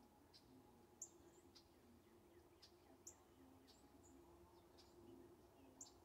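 Faint, short, high-pitched chirps of small songbirds, one or two a second, over a faint steady low hum.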